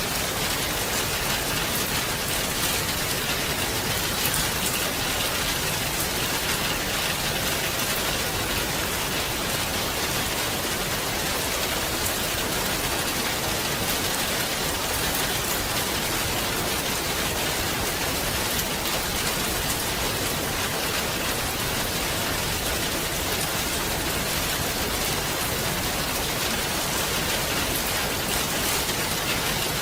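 Steady rain falling on a surface, an even hiss of many drops with fine ticks of individual raindrops.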